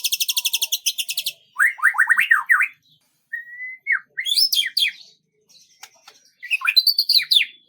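Songbird singing: a rapid high trill, then three phrases of quick down-sweeping whistled notes with short pauses between them.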